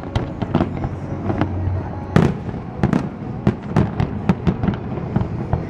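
Aerial fireworks bursting in a rapid, irregular string of sharp bangs and crackles, the loudest about two seconds in and again about three seconds in.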